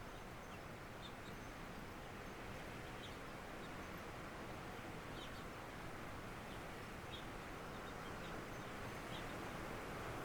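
Steady windstorm noise with rain, with birds giving short high chirps every second or two. The wind builds slightly louder near the end.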